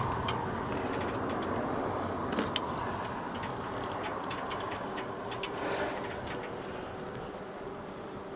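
Many honey bees buzzing steadily from a disturbed colony in an opened house wall, with scattered small clicks and taps.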